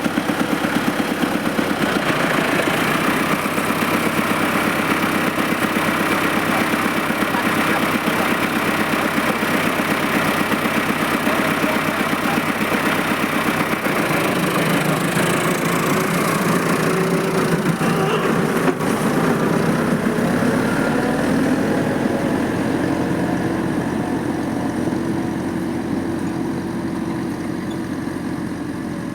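Tractor engine running steadily, its note shifting about halfway through and easing slightly near the end.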